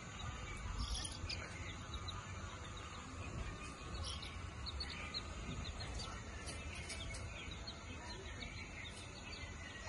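Faint outdoor background with a constant low rumble and many short, high bird chirps scattered throughout.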